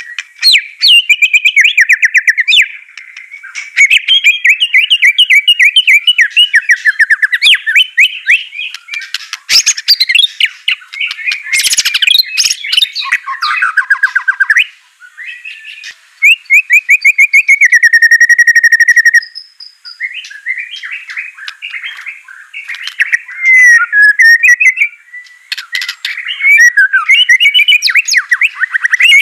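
White-rumped shama (murai batu) singing a loud, varied song of rapid trills and whistled phrases, with a few short pauses. It is played as a bait song to set other kept shamas singing.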